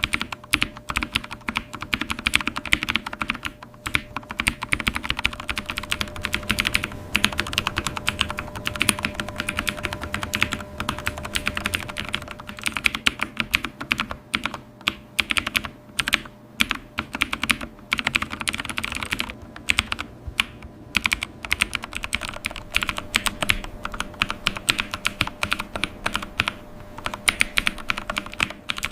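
Continuous fast typing on a computer keyboard: a dense run of key clicks, broken by a few short pauses.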